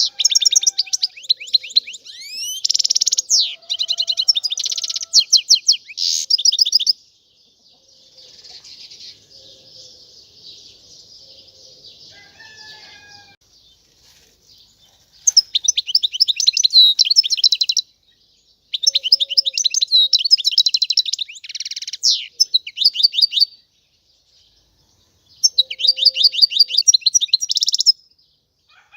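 European goldfinch singing: phrases of rapid, high twittering trills, with a soft, quiet twitter in the middle before the full song picks up again in several loud phrases.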